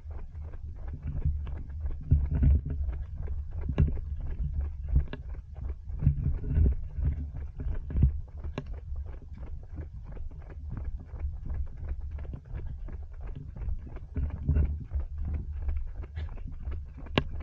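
Runners' footsteps patter on the ground over a steady low rumble of wind buffeting the microphone of a body-worn action camera during a run.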